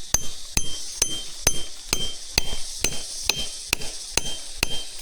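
Steady hammering, one blow a bit over twice a second, each strike ringing briefly with a high metallic tone, as of a hammer on metal.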